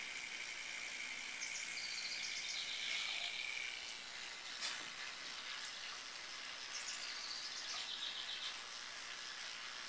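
Outdoor ambience with a steady high hiss and two short runs of bird chirps, one a couple of seconds in and one near the end. A steady high-pitched tone stops a few seconds in, and a single click sounds near the middle.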